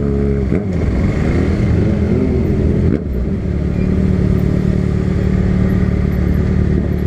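Motorcycle engines idling at a stop, revved up and down a few times in the first three seconds, then running steadily.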